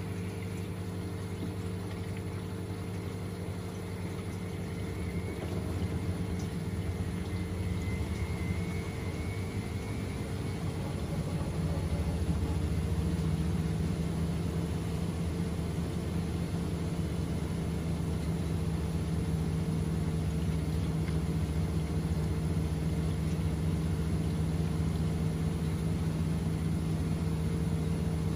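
Washing machine running its down programme with a load of bedding: water and pump sounds under a steady motor hum that grows louder about five seconds in and again about twelve seconds in, then holds steady.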